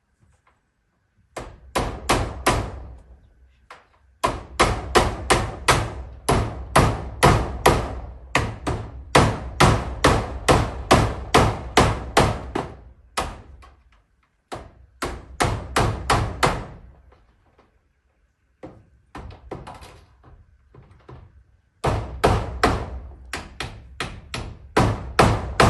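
A hammer driving nails through corrugated zinc roofing sheets: steady strokes about three a second, in several runs broken by short pauses.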